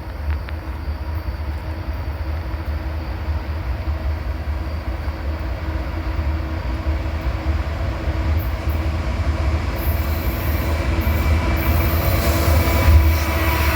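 Freight train with diesel locomotives approaching and passing: a steady low rumble that grows louder, with wheel-on-rail noise building near the end.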